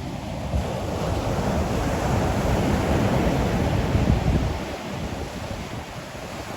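Ocean waves breaking on the shore: the surf's rush swells about half a second in, peaks in the middle and eases off toward the end.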